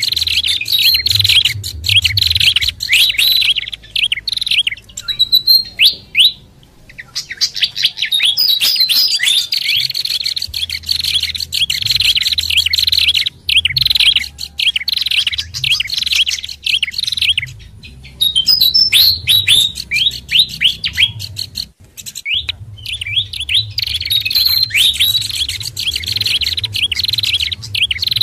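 Bird-lure recording of several small songbirds calling at once: pied fantail, pelanduk bukit babbler and prenjak kepala merah. It is a dense run of rapid, sharp, high chirps and chatter, broken by a few short pauses.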